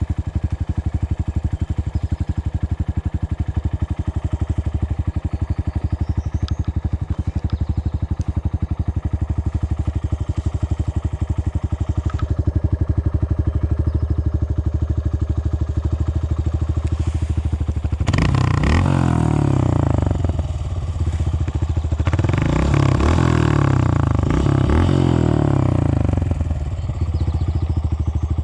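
Dirt bike engine running steadily at low revs, then opened up twice, about two-thirds of the way in and again a few seconds later, each time revving higher for a few seconds before dropping back.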